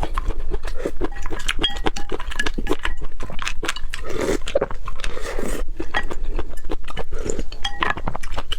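Close-miked eating sounds: chewing and biting with wet mouth noises, and several short clinks of utensils against dishes.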